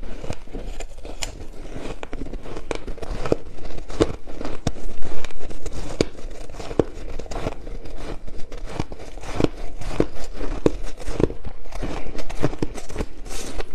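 Ice being chewed close to the microphone: a run of irregular crunches and crackles, several a second.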